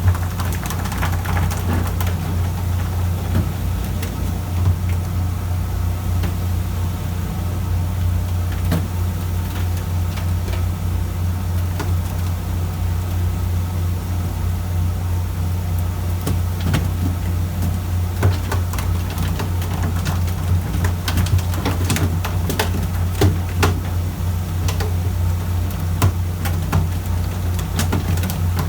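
A fishing boat's engine running steadily, a low drone that does not change, with scattered short knocks and clicks, more of them in the second half.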